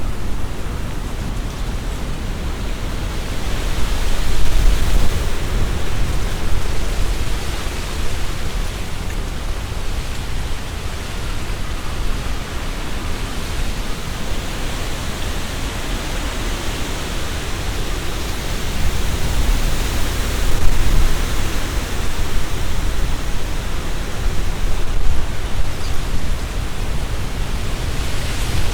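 Strong wind rustling tree leaves, with a heavy low rumble of wind buffeting the binaural microphone. Gusts swell about four seconds in and again around twenty seconds in.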